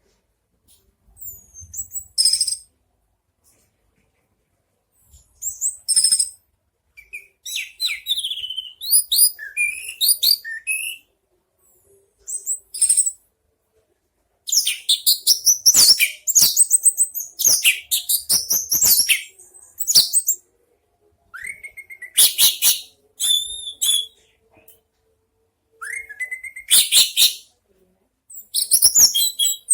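Orange-headed thrush singing loudly in bouts of fast, varied high whistles, chirps and trills, with pauses of a second or two between bouts.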